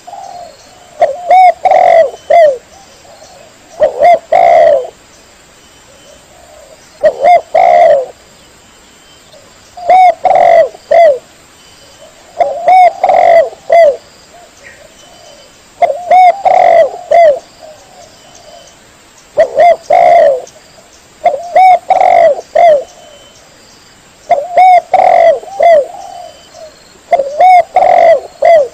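Spotted dove (tekukur) cooing: short phrases of several coos, repeated about every three seconds.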